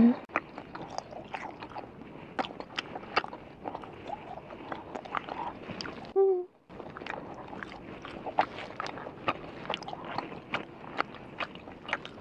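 Close-miked chewing of a spicy chewy gummy candy: many short, wet, sticky mouth clicks and smacks. A short hum about six seconds in breaks the chewing briefly.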